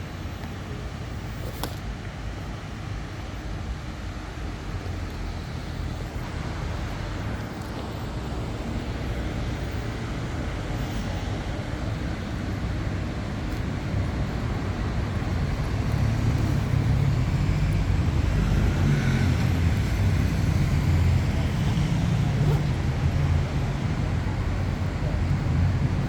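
City street traffic: motor vehicles running by as a steady low rumble, which grows louder after about fifteen seconds.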